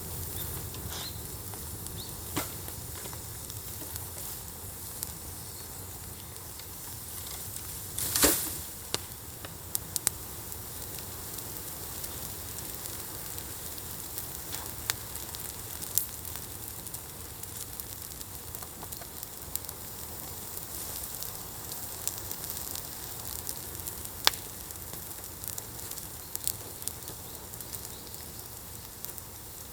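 Wood fire burning on embers with a steady hiss and scattered crackles and pops; one louder burst of crackling about eight seconds in, and sharp single pops later on.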